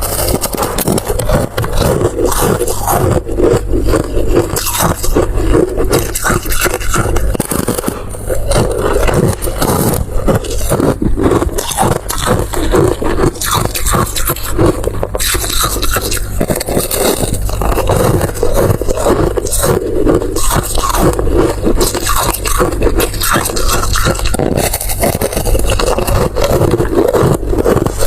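Close-miked ASMR eating sounds: continuous chewing and crunching made of dense small clicks and scrapes, over a steady low hum.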